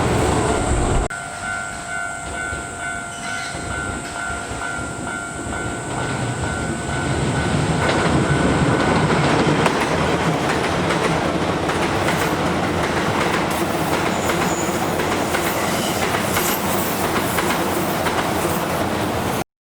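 Chiba New Town Railway 9800 series electric train passing, its wheels clattering over the rail joints and getting louder from about six seconds in. Early on, a level-crossing warning bell rings about twice a second, then fades under the train.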